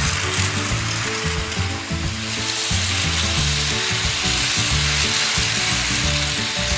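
Several Daiso petit battery-powered toy trains running on plastic track, their small electric motors and gears whirring with a steady hiss.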